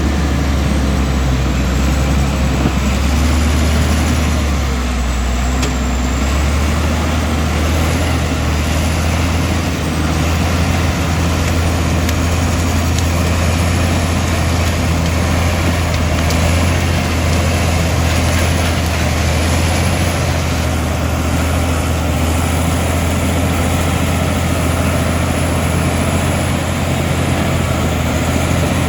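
Komatsu D65E bulldozer's diesel engine running steadily, a constant low hum under a wash of machine noise.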